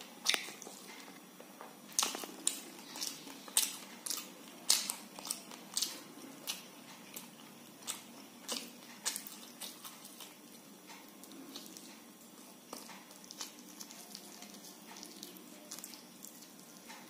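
Close-miked eating sounds: wet mouth smacks and chewing of soft khichdi eaten by hand, a run of sharp smacks about every half second to second that grow fainter in the second half.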